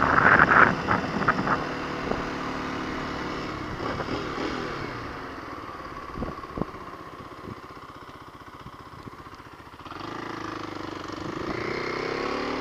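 Kawasaki KLX250's single-cylinder four-stroke engine running under the rider. It drops to a quiet, evenly pulsing idle about halfway through, then picks up again and revs rising near the end. A loud burst of noise comes in the first second or so.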